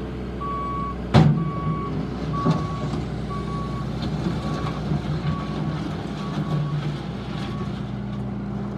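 Bobcat S750 skid steer's diesel engine running while its backup alarm beeps about once a second while reversing, the beeps stopping near the end. A loud clunk comes about a second in, with a lighter knock a little later.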